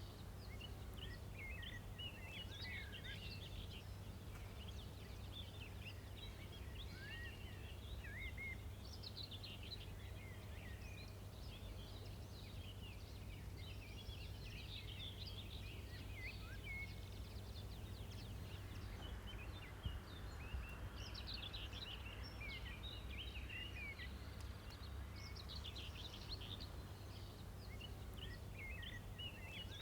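Small birds chirping and twittering in many quick, short calls over a steady low rumble, with two brief ticks about two-thirds of the way through.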